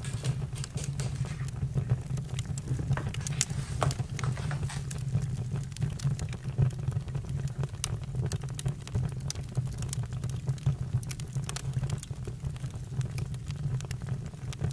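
Campfire crackling: frequent sharp, irregular pops and snaps over a steady low rumble.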